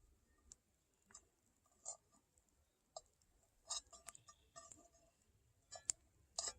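Faint, scattered clicks and light knocks, each brief and irregularly spaced, from small utensils being handled, with near silence between them.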